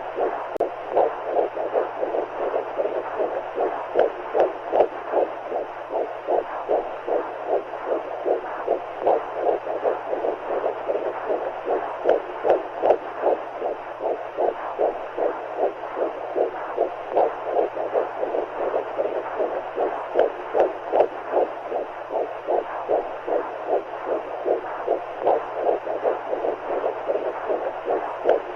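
Womb sound for soothing a baby: quick, regular heartbeat pulses, about two a second, over a steady whooshing noise of fluid, with a faint low hum beneath.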